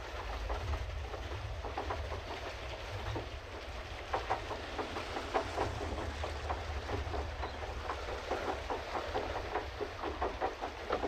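Pedal boat's paddle wheel churning the water in a quick, irregular patter of small splashes and clatter, over a low steady rumble.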